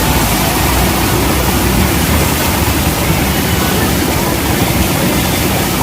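Loud, steady rushing of a waterfall.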